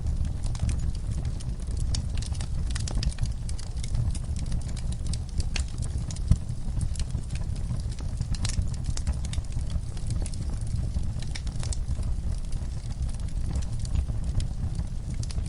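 Wood fire burning in a fireplace: a steady low rumble of flames with irregular crackles and pops, one louder pop about six seconds in.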